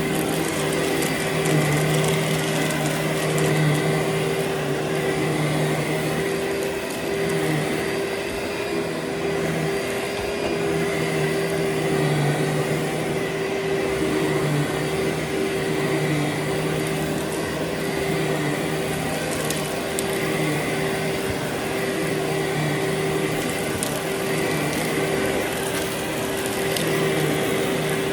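Vacuum cleaner running steadily: a constant motor whine over a rushing airflow noise.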